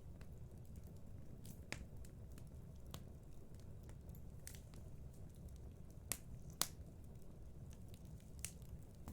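Fireplace fire crackling: a steady low rumble of the flames with irregular sharp pops, the loudest about six and a half seconds in.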